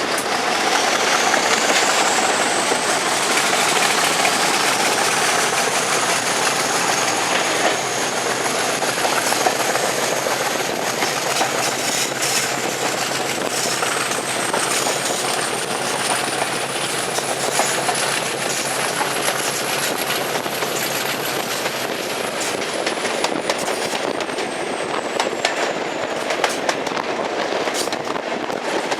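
Train running on the track, its wheels clicking over rail joints, with a long high squeal that slowly climbs in pitch and then falls away near the end.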